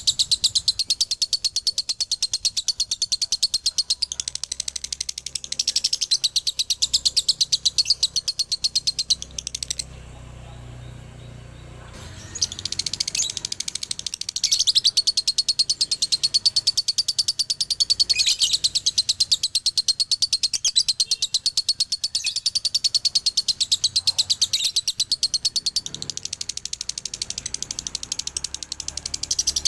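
Male lovebird singing its long, rapid chattering trill (the 'dobelan'/'ngekek' song), high chirps repeated many times a second. It breaks off for about two seconds around a third of the way in, then carries on.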